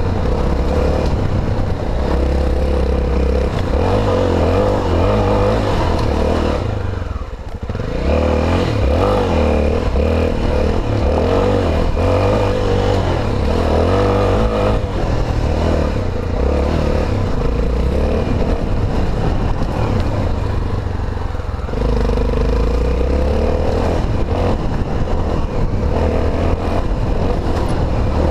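Honda XR250 Tornado's single-cylinder four-stroke engine running as the bike rides a dirt trail, the throttle easing off briefly about seven seconds in before it pulls again.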